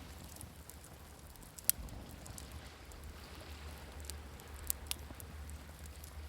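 Campfire crackling with a few sharp pops, the loudest just under two seconds in and two close together near five seconds, over a low steady wash of waves.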